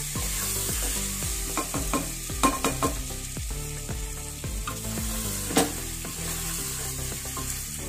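Mutton and spice masala sizzling as it fries in an aluminium pressure cooker. A spatula stirs and scrapes through it, with several clicks against the pot in the first few seconds and one sharp knock about halfway through. This is the bhuna stage, the meat and masala being fried before water goes in.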